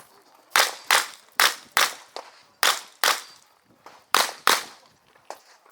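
Competition revolver fired eight times in four quick pairs, each pair two shots about 0.4 s apart: double taps on a practical-shooting stage, emptying an eight-round cylinder.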